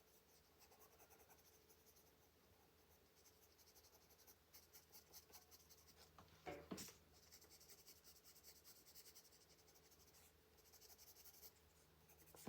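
Faint scratching of a colored pencil shading on paper in quick, repeated strokes, with one brief soft knock about six and a half seconds in.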